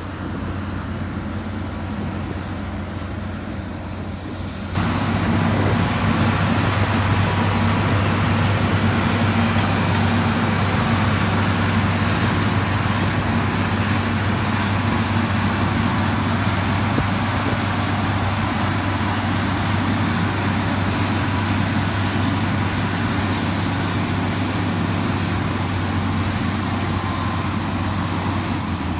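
Heavy diesel construction machinery running steadily with a deep engine drone, turning abruptly louder and brighter about five seconds in.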